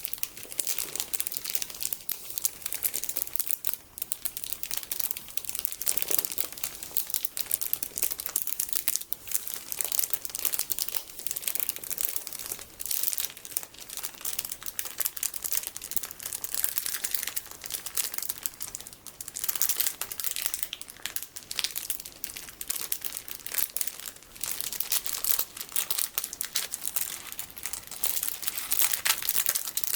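Crinkling of a plastic package of sticky beads being squeezed and handled: a continuous, dense, crackly crinkle made of many fine clicks, sharp and bright.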